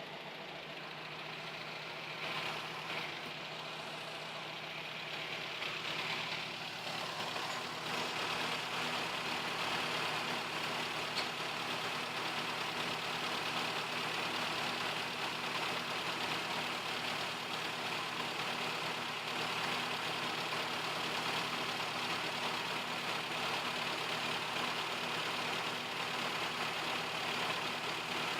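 Suzuki G16A 1.6-litre four-cylinder engine idling steadily, getting louder over the first several seconds and then holding even.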